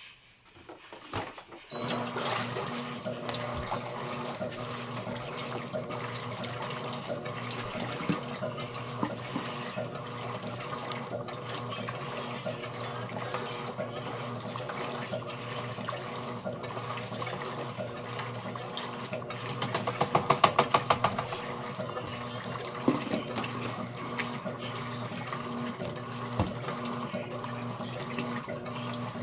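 Electrolux Essential Care 11 kg washing machine filling with water: a steady rush of running water with a low hum, starting about two seconds in. About two-thirds of the way through there is a brief, rapid rattling.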